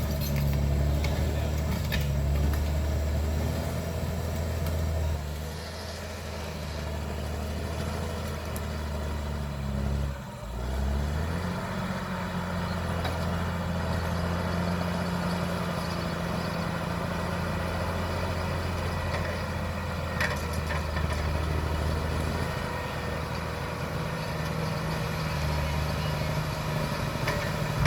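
Caterpillar D6R XL bulldozer's diesel engine running steadily. About ten seconds in the engine sound briefly drops out, then picks back up at a slightly higher pitch.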